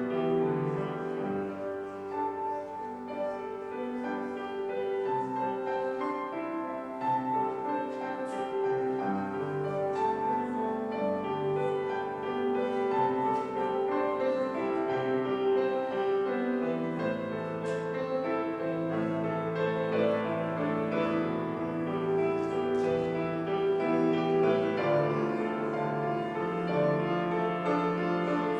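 Slow solo keyboard prelude of held chords under a melody line, played as church prelude music.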